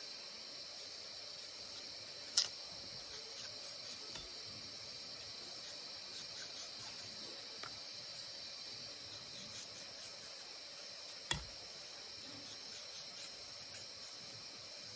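Steady high-pitched insect chirring, like crickets, with runs of short crisp ticks and two sharp clicks, one about two seconds in and one about eleven seconds in.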